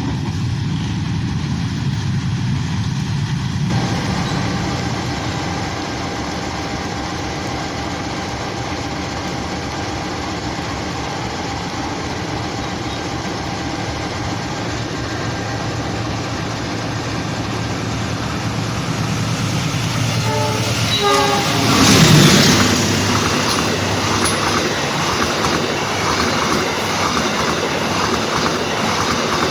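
A train running past close by: a steady mechanical hum builds up, swells loudest about three-quarters of the way through as the train draws level, then gives way to the rattling clatter of wheels over the rail joints.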